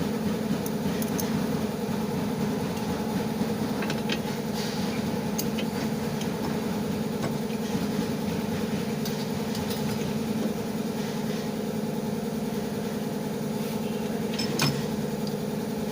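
An engine idling steadily, with a few light clicks over the top.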